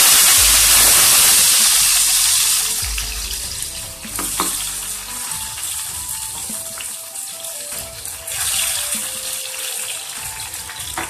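Tomato wedges frying in a pan of hot oil. A loud sizzle dies down about two to three seconds in, then continues as quieter, uneven bubbling and crackling.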